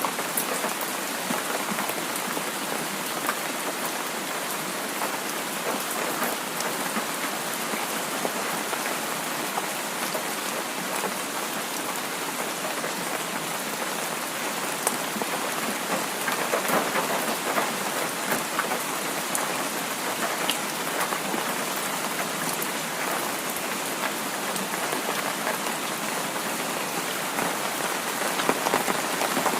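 Heavy rain falling steadily, a dense patter of many small drop impacts at an even level.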